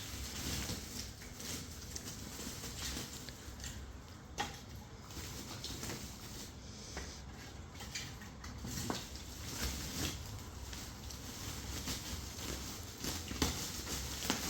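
Irregular light clicks and knocks, a few sharper ones standing out, over a low steady hum.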